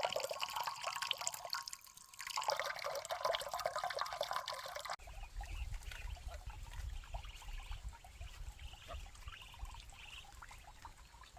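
Water pouring and trickling with a splashy patter, briefly dropping away about two seconds in. After about five seconds it cuts off abruptly, leaving a low steady rumble with faint high chirps.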